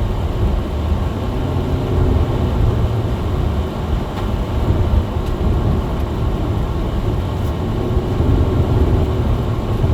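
Car engine and tyre noise heard from inside the cabin while driving uphill on a snow-covered road: a steady, deep rumble with a faint engine hum above it.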